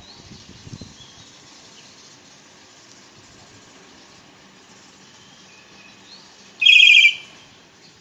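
Birds chirping faintly in the background, and one loud, rapid, trilled bird call about two-thirds of the way in that lasts about half a second.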